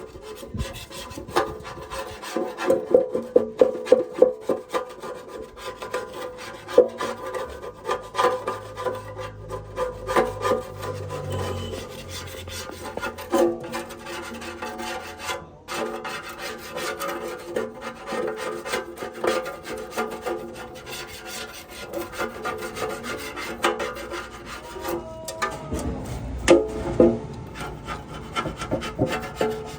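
Hand tool scraping or filing a part in repeated rasping strokes, as in cleaning rust and corrosion off engine parts.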